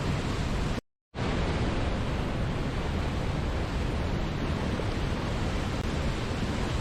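Steady rushing of a waterfall, an even wash of water noise heaviest in the low end. About a second in it cuts out to dead silence for a fraction of a second, then comes straight back.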